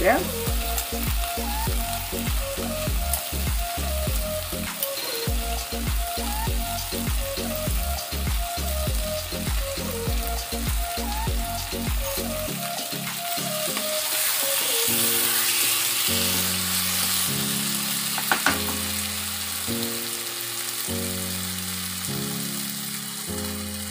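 Chicken pieces in thick masala frying in a nonstick pan, sizzling, with a spatula stirring them; the sizzle swells in the middle. Background music with a steady beat plays throughout.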